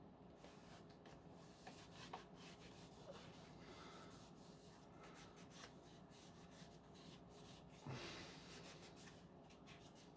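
Very faint rubbing and wiping on plastic with occasional light ticks, typical of a wet wipe being worked over a Dyson V10's body; a slightly louder rub comes about eight seconds in.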